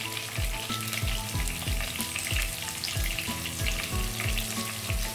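Chopped onion, tomato and green chillies sizzling in hot oil in a nonstick kadai, under background music with a steady beat of about three thumps a second.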